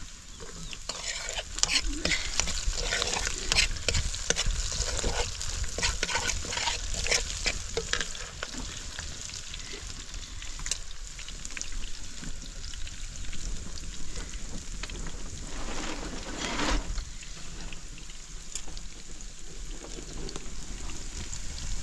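A utensil scraping and clicking irregularly in a pan over a steady sizzle of frying food. The clicks are busiest in the first third, with one loud scrape later on.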